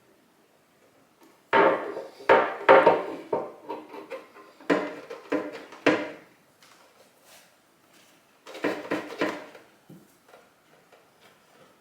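Hard objects, likely tools or parts, knocked and clattered about on a workbench in three bursts of knocks, some with a short ring.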